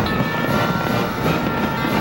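Fireworks finale: many aerial shells bursting in quick succession, their booms merging into a continuous rumble with crackling on top.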